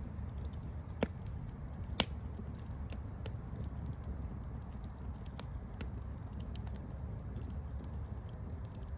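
Wood fire burning with a steady low rumble and scattered small crackles, broken by two sharp pops about a second apart near the start.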